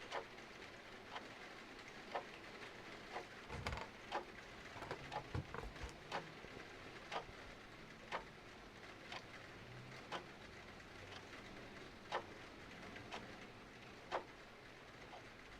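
Clock ticking about once a second over a steady hiss of rain, with a burst of fireplace crackles and pops a few seconds in.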